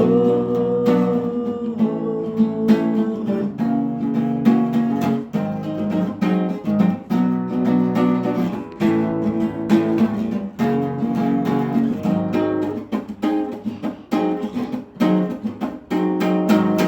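Instrumental music with no singing: acoustic guitar strummed and plucked in a steady run of chords.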